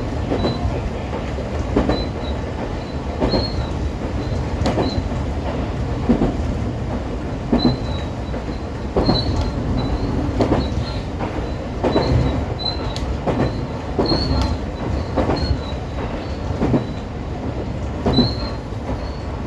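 A JR West 125 series electric railcar running along the track. Its wheels click over rail joints roughly once every second and a half, with short high squeals from the wheels now and then.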